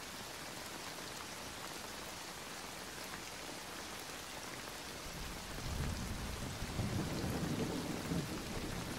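Steady rain falling, with a low roll of thunder that builds from about halfway through and eases off near the end.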